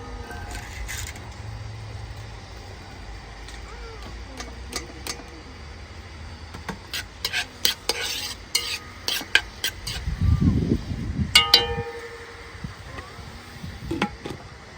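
A utensil stirring and clinking in a metal pot, with scattered sharp clicks and one louder ringing knock about eleven seconds in.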